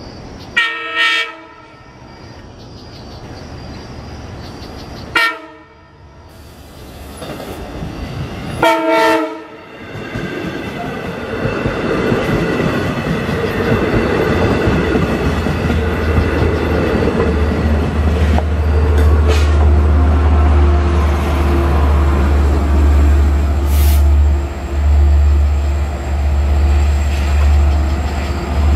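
Long Island Rail Road diesel train sounding its horn in several blasts as it approaches, the first a double blast and the last the longest. It then passes close by with a steady low engine drone and rising wheel and rail noise.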